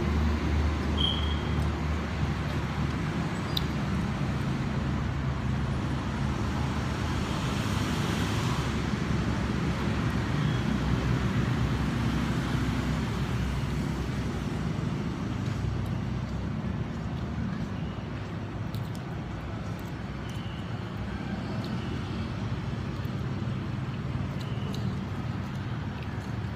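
Steady road traffic noise, mostly low-pitched, from vehicles passing continuously with no single event standing out.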